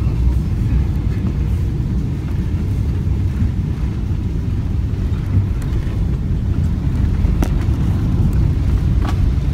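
Boeing 777 airliner during landing: a steady low rumble, with a faint click about seven seconds in and another near the end.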